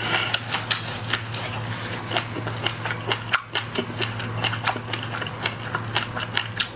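Close-miked eating of shell-on seafood: a rapid, irregular run of crackling clicks from shell being bitten and chewed, with a steady low hum underneath.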